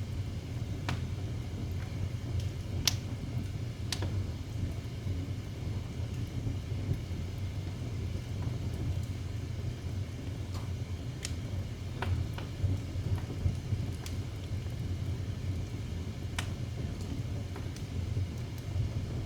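Wood fire in a fireplace crackling: sharp, irregular pops every second or two over a steady low rumble.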